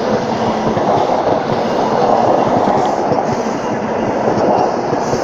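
InterCity 125 (HST) high-speed diesel train running past along the platform: a loud, steady rumble of wheels and coaches on the rails.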